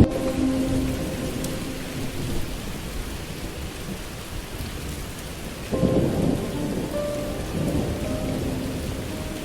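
Steady rain with thunder, a low rumble swelling up about six seconds in, under faint held musical notes.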